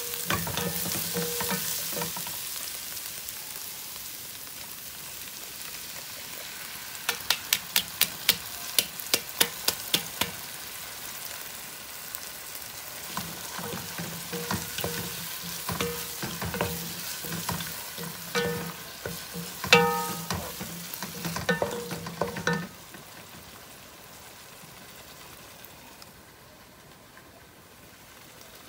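Ground meat, carrot and onion sizzling in a pot while a wooden spatula stirs and scrapes through them. Partway through comes a quick run of about a dozen sharp taps. After tomato sauce is mixed in, the sizzle and stirring quieten near the end.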